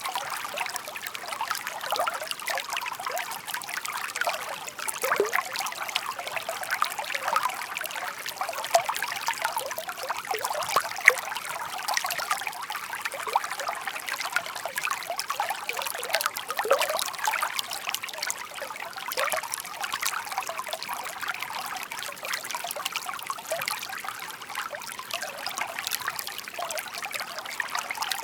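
Shallow babbling brook: water trickling and burbling steadily over stones, full of small splashes and gurgles.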